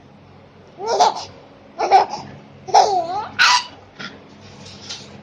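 Five-month-old baby laughing in short bursts, about four laughs roughly a second apart, with fainter sounds near the end.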